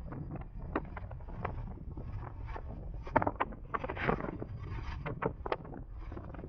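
Wind rushing over the microphone of a moving electric motorcycle: a steady low rumble broken by frequent short knocks and rattles, the loudest about three seconds in.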